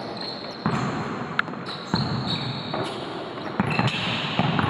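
A basketball bouncing on a court floor: a handful of irregular thumps over a steady background din.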